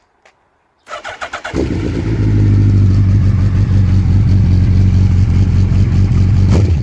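Suzuki GSX1300R Hayabusa's inline-four through a GPR aftermarket exhaust, started up: about a second in the starter cranks briefly, the engine catches, then runs loud and steady at idle.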